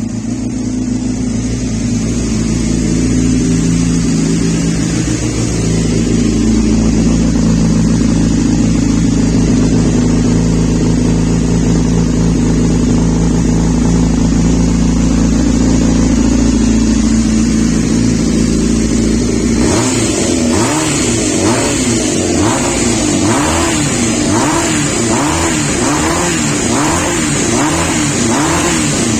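Kawasaki ZZR400-2 inline-four motorcycle engine with an aftermarket WRS exhaust, idling steadily. About two-thirds of the way through it switches to a quick series of throttle blips, the revs rising and falling about once a second.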